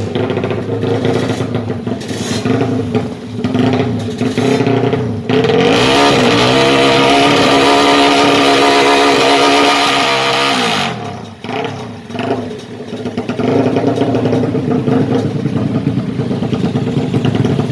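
Yamaha MX King motorcycle, bored to 200 cc and fuel-injected, running through an HO2 Racing exhaust. It idles with short throttle blips, then about five seconds in it is revved up and held high for about five seconds, dropping back to idle and blips near eleven seconds in.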